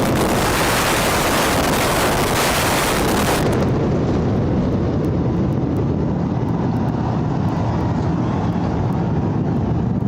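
Loud, continuous rumble from the collapse of the Noida twin towers in a controlled explosive demolition. The high hiss drops away about three and a half seconds in, leaving a steady low rumble.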